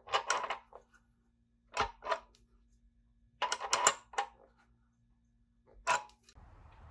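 Clicking and clattering of small hard objects being handled, in four short bursts, the last a single sharp click.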